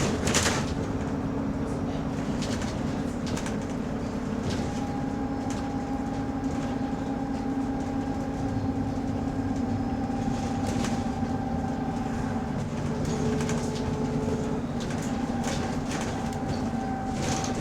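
A bus engine droning steadily while the bus is under way, heard from on board, with a low hum and a faint higher whine. The bus has an exhaust leak.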